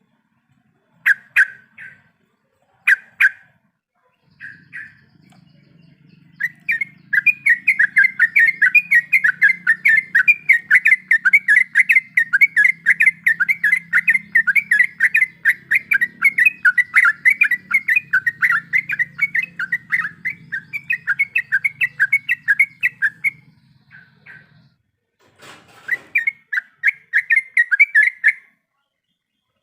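Yellow-vented bulbul (trucuk) singing: a few short calls, then a long rapid-fire run of repeated chattering notes lasting about seventeen seconds. After a pause comes a shorter run near the end. A faint low hum lies under the long run.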